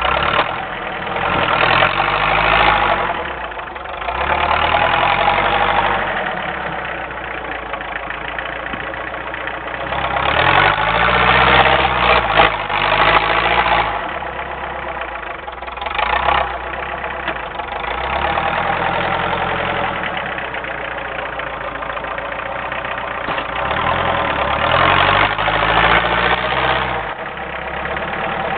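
Homemade doodlebug tractor's diesel engine working while plowing wet, heavy snow, revving up and easing off several times.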